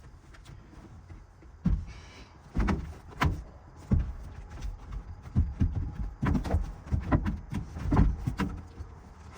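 A bed frame being put together inside a truck camper: a run of irregular knocks and thumps as its pieces are shifted and set in place, starting a couple of seconds in.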